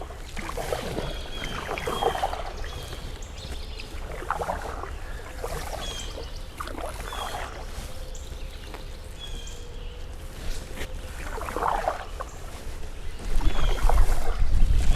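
Canoe paddle strokes swishing and dripping in the water every couple of seconds, with unseen birds calling in short, repeated high notes. Wind buffets the microphone near the end.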